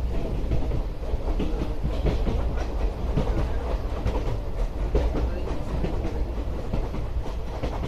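Indian Railways passenger coaches running along the track: a steady low rumble with irregular clacking of the wheels over rail joints.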